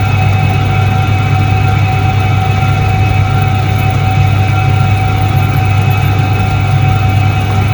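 A 1978 Soviet Iset-3 washing machine running with a steady, unchanging hum.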